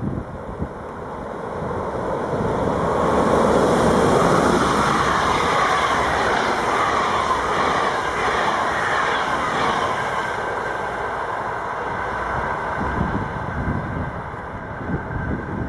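A train passes through the station, growing louder over the first few seconds and staying loud, with a whine from its running gear that slides in pitch, then easing off near the end with some rail knocks.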